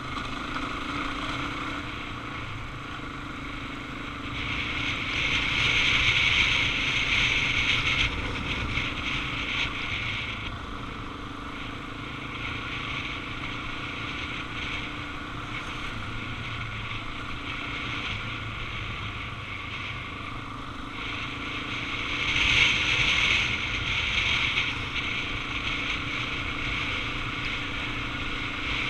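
Suzuki DR-Z400 single-cylinder motorcycle engine running steadily on the move, with wind rushing over the microphone. The rush swells twice, from about five to ten seconds in and again around twenty-three seconds.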